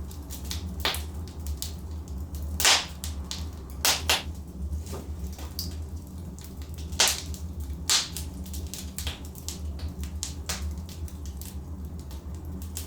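Logs burning in a fireplace, crackling with frequent irregular sharp pops and a handful of louder snaps over a steady low rumble.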